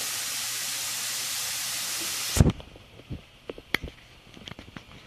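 Chicken frying in hot oil, a loud steady sizzle that stops abruptly about two and a half seconds in. A few light clicks and knocks follow.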